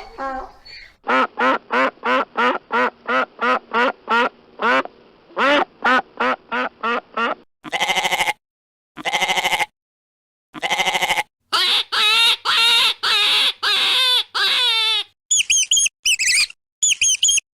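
Ducks quacking, first in a quick run of short quacks about three a second, then in longer drawn-out calls with short silences between. Near the end come rapid high-pitched peeps.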